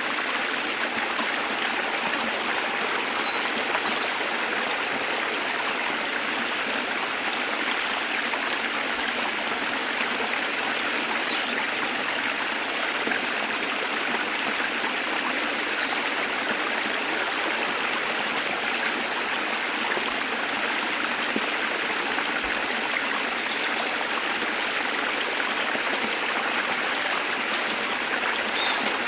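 Waterfall rushing steadily, an even unbroken water noise, with a few faint brief high chirps of birds scattered through it.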